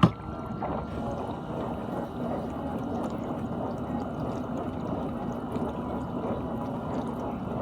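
GE dishwasher running, water spraying and sloshing inside over a steady pump hum, with a sharp click right at the start.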